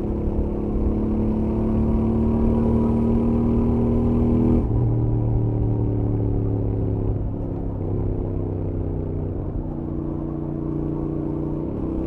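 Royal Enfield Interceptor 650's stock 648 cc parallel-twin engine and exhaust under way at highway speed. The pitch climbs slightly under throttle, drops sharply about four and a half seconds in as the throttle eases or a gear changes, then settles lower and rises again near the end.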